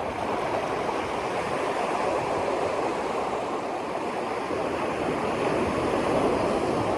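Steady rushing of moving water, an even wash with no distinct splashes or strokes.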